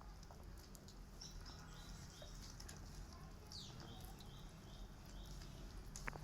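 Faint bird chirping in the background: a quick falling call about halfway through, then a run of short repeated notes, with small scattered clicks and one sharp tick near the end.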